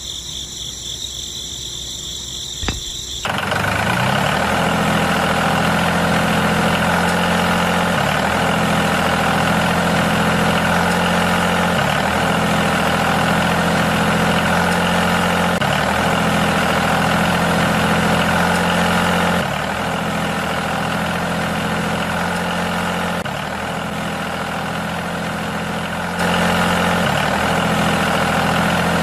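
Engine idling steadily, starting about three seconds in. Its low drone dips and picks up again about every four seconds.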